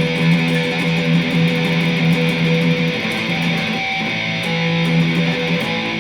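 Electric guitar playing a fast picked practice riff: a low note repeated steadily under shifting higher notes, with quick, even pick strokes.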